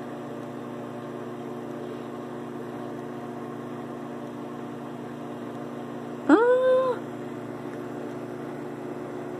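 Microwave oven running with a steady hum. About six seconds in, a brief voice-like sound rises in pitch and holds for under a second.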